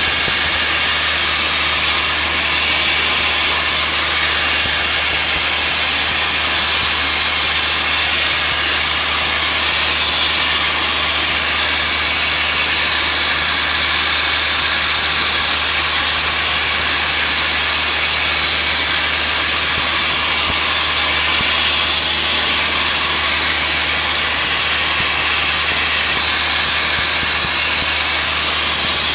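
Sandblasting nozzle blasting crushed-glass abrasive on wood with compressed air: a loud, steady jet-like hiss with a thin high whistle running through it and a low hum beneath.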